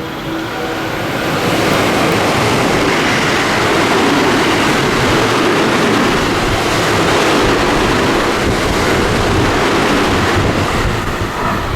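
A train passing through the station at speed: a loud, steady rush of wheel and air noise that builds about a second in and eases off near the end.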